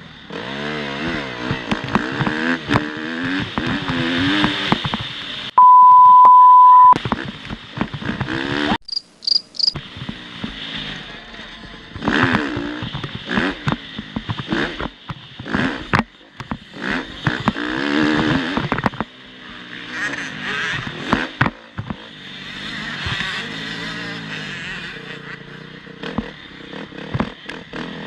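Motocross bike engines revving up and down over and over as the bikes race, with a loud steady beep lasting just over a second about six seconds in and a few short high beeps about four seconds later.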